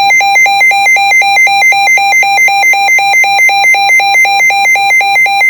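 Emergency weather alert tone for a severe thunderstorm warning: a loud electronic tone flipping between a lower and a higher pitch about four times a second.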